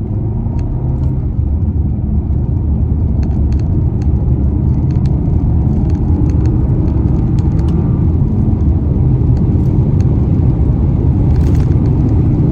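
Car engine and road rumble heard from inside the moving car as it pulls away and gathers speed, the rumble growing gradually louder, with a few faint ticks above it.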